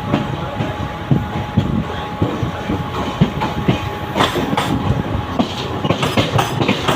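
Mumbai suburban local train running, a steady rumble with wheels clattering over rail joints, under a faint steady hum. The clatter turns sharper and more frequent about four seconds in.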